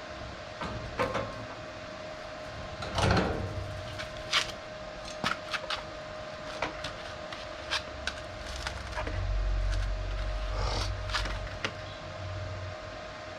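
Irregular knocks, clicks and clanks of hand work on a sheet-steel boat build, louder about three seconds in, over a steady faint hum, with a low rumble for a few seconds near the end.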